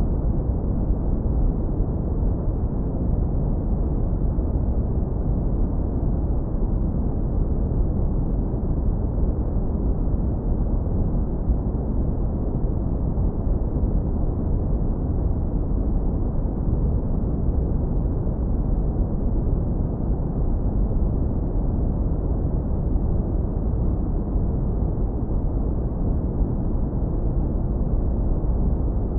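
Synthetic brown noise, heavily low-pass filtered so that only a deep, warm rumble is left, running steady and unchanging.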